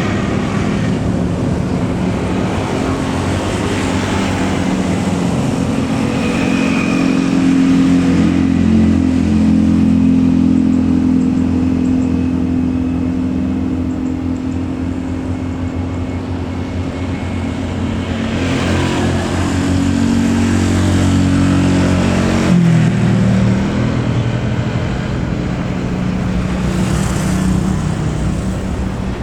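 Engines running steadily with a deep, layered hum that shifts in pitch about three quarters of the way through.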